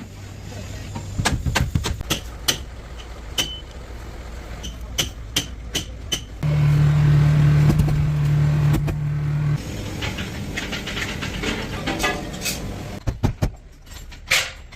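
Repair work on a truck: a string of sharp metal knocks and clanks, with a machine's motor running steadily for about three seconds in the middle.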